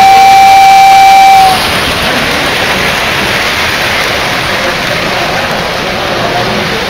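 Model train's whistle holding one long steady tone that cuts off about a second and a half in, followed by the steady running noise of the trains on the layout.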